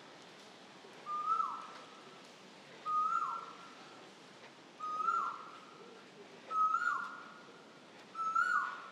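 A bird calling over and over with a single clear whistled note that rises briefly and then holds, five times, about every one and a half to two seconds.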